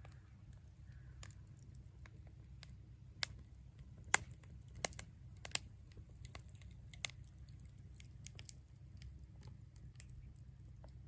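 Wood fire crackling: irregular sharp pops and snaps, a few louder ones around the middle, over a low steady rumble.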